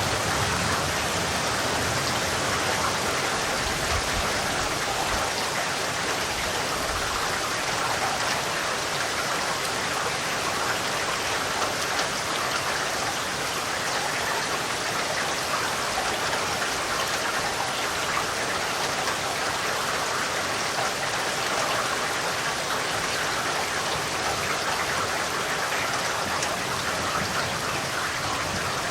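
Steady rain falling, an even dense hiss of drops on surfaces, with a low rumble fading out over the first few seconds.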